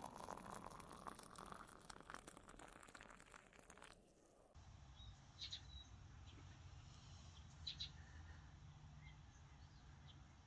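Near silence: low room tone with faint clicks, then a few faint short high chirps.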